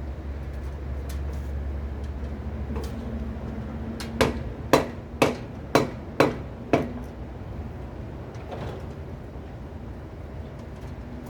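Six sharp knocks in quick succession, about two a second, from striking during drain-pipe repair work. A low steady hum runs underneath for the first few seconds.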